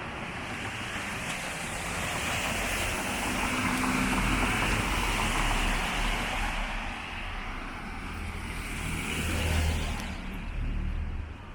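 Cars driving past on a rain-wet street, their tyres hissing on the wet road. One swells and fades about four to six seconds in, and another passes near the end before the sound drops away.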